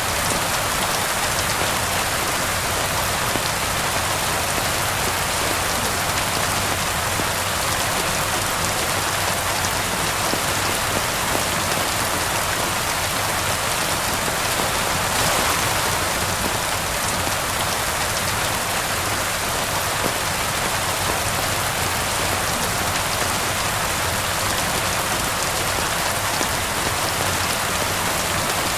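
Steady rain falling and pattering on surfaces, an even, unbroken hiss that swells slightly about halfway through.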